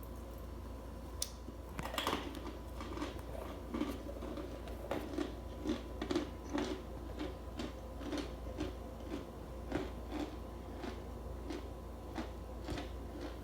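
Starch being crunched in a steady rhythm, about two crisp crunches a second, starting about two seconds in, over a faint steady electrical hum.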